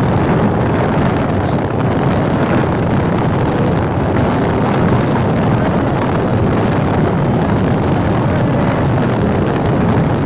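Steady rush of wind buffeting the microphone on a moving motorcycle, with the road and engine noise of the ride blended underneath.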